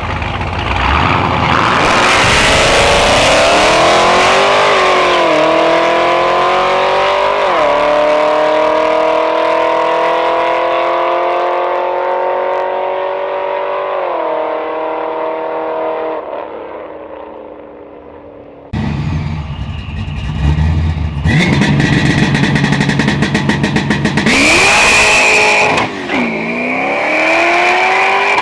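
A drag car launching and running down the strip, its engine pitch climbing through the gears with shifts about five, seven and fourteen seconds in, then fading as it pulls away. After an abrupt cut about nineteen seconds in, another car's engine revs and launches loudly, shifting gear near the end.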